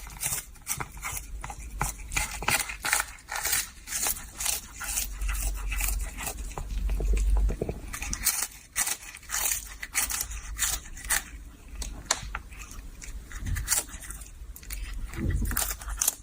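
Rapid, irregular crunching and clicking close to the microphone, with a low rumble underneath.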